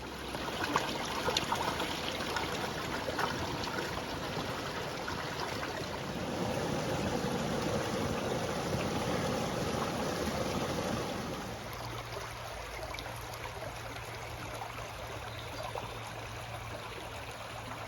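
Water of a small woodland brook running over its bed: a steady rushing that grows louder through the middle, then drops away about two-thirds through to a quieter background with a low steady hum.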